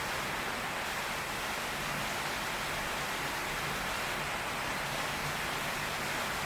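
Heavy tropical rain pouring steadily, drumming on a tin roof, an even hiss with no thunder.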